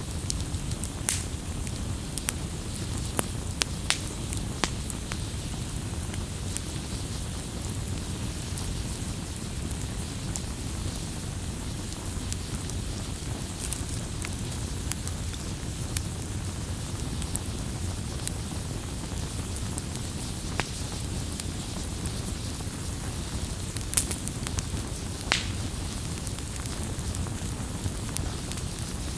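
Wood bonfire crackling, with scattered sharp pops, a few louder ones, over a steady low rush of the burning fire.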